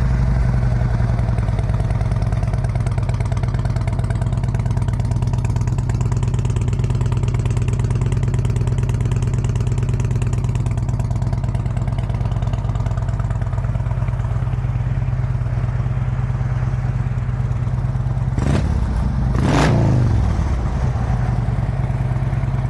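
2011 Harley-Davidson Road Glide Custom's 96-cubic-inch V-twin idling steadily through Rinehart exhaust. Near the end the throttle is blipped twice in quick succession before it settles back to idle.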